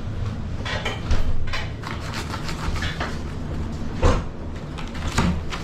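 Strong wind buffeting the microphone with a steady low rumble, broken by a few short knocks and clatters, loudest about a second in and again about four seconds in.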